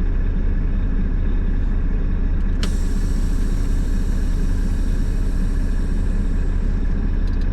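Steady low rumble of a truck's engine and road noise heard inside the cab, with a single sharp click about two and a half seconds in.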